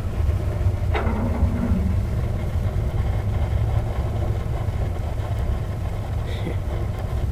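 Wood stove fire with burning electrolytic capacitors, a steady low rumble of flames drawing through the partly open door, with one sharp crackle about a second in.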